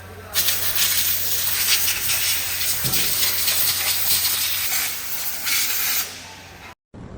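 Compressed air hissing steadily and loudly, stopping about six seconds in.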